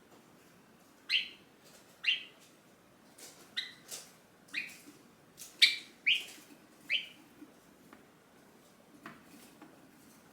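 Java sparrow calling: a series of about eight short, sharp notes, each dropping in pitch, spaced roughly half a second to a second apart, then stopping for the last few seconds.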